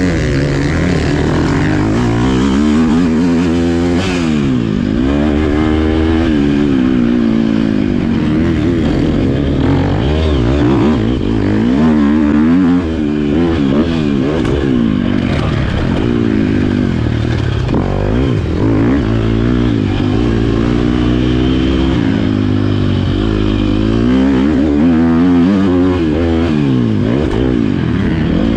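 Motocross bike engine running hard, its pitch rising and falling over and over as the rider accelerates, shifts and backs off.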